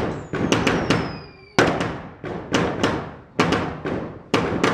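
Ground-set fireworks firing a rapid string of sharp bangs, several a second in uneven clusters, each trailing off in a short echo. A falling whistle sounds during the first second or so.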